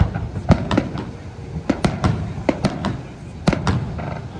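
Fireworks going off: about ten sharp bangs and pops at irregular intervals, some in quick pairs, over a low continuous rumble.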